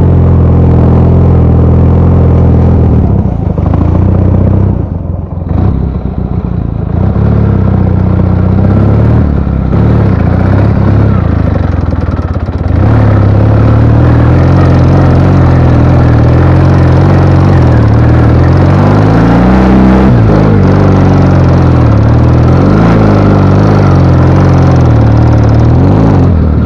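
Ural motorcycle's flat-twin engine running under way, easing off about three seconds in and picking up again, then pulling steadily, with the revs rising and falling several times near the end.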